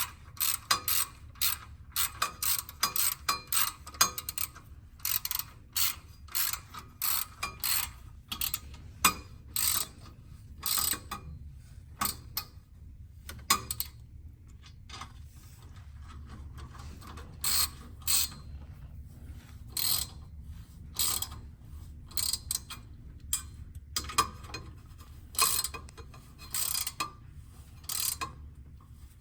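Ratchet wrench clicking in quick runs of short strokes, with pauses between runs, as the exhaust front pipe's bolts are tightened.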